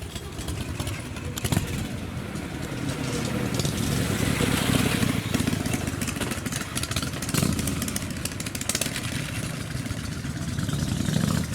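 American car engine running nearby, its deep exhaust note swelling louder a few times, most strongly around the middle and again near the end.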